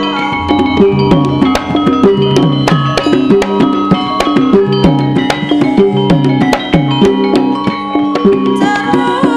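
Javanese gamelan music accompanying a lengger dance, driven by kendang hand-drum strokes that fall in pitch, over a dense pattern of struck pitched tones.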